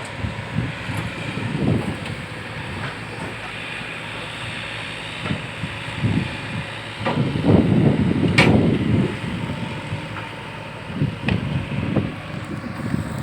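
Wind buffeting the microphone in irregular low gusts, with one sharp click about eight seconds in.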